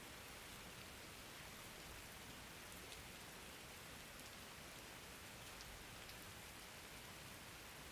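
Faint, steady rain: an even hiss of falling rain with occasional light drop ticks.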